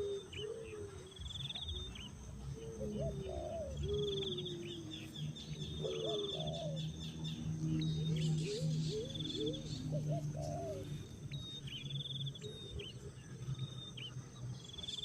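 Several birds calling: short, low calls that rise and fall, mixed with high rapid trills, over a steady low hum.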